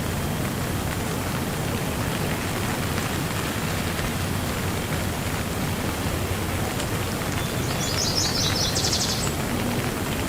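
Steady rain falling, an even hiss throughout. Near the end a bird calls with a quick run of short high chirps.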